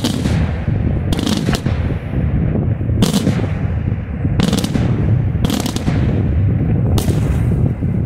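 Daytime fireworks: aerial shells bursting in a run of loud, sharp bangs, some in quick pairs, over a continuous rumble of further detonations.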